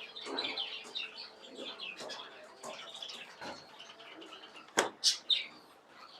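Birds chirping and twittering in many short high calls, with three sharp clicks close together a little under five seconds in.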